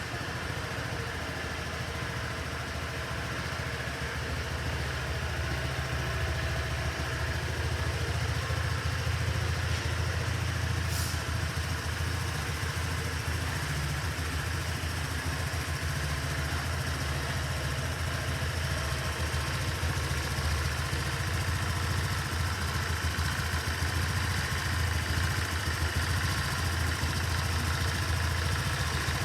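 Honda PCX125 scooter's single-cylinder four-stroke engine idling steadily, with a brief faint high hiss about eleven seconds in.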